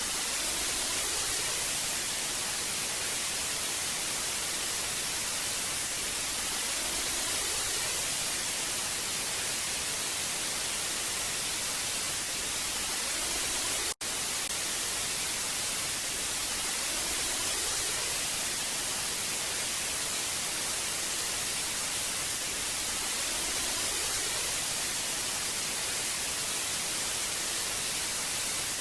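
Old analog television static: a steady hiss, brightest in the treble, that briefly drops out for a split second about halfway through.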